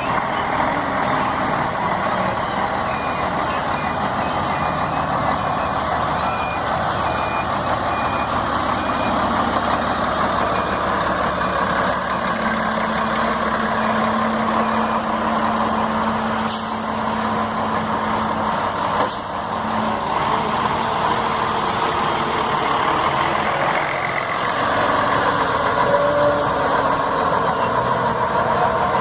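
Scania K124 coach's diesel engine running steadily. A few seconds in, a high-pitched beeper sounds evenly, about twice a second, for several seconds, as a reversing alarm does. Two short clicks come later.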